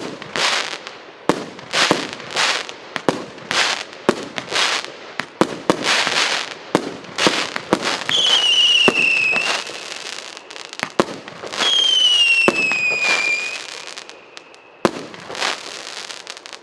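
48-shot, 1.25-inch consumer firework cake firing shot after shot: sharp launch thumps and aerial bursts with crackling trails. Twice near the middle a loud whistle sounds, its pitch falling over a second or two.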